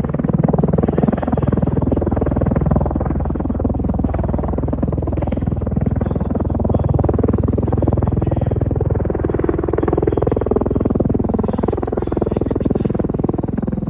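MV-22 Osprey tiltrotor's twin turboshaft engines and proprotors running in flight, a loud, steady, deep rumble.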